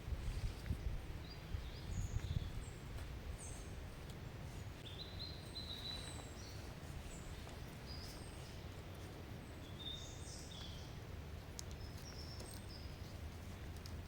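Short high chirps of birds scattered throughout, over a steady low rumble of outdoor background noise.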